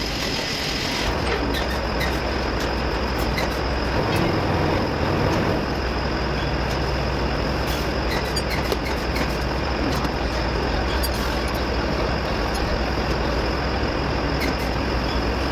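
Volvo truck diesel engine running steadily, with a deeper low note coming in about a second in.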